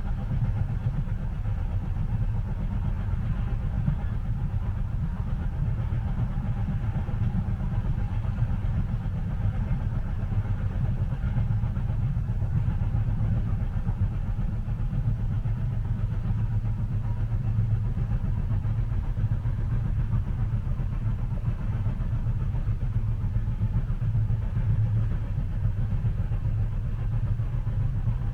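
Steady low rumble of a moving train, heard from inside a passenger car.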